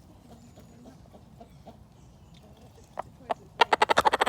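Chickens clucking: faint scattered clucks, then a fast run of short, sharp clucks beginning about three and a half seconds in.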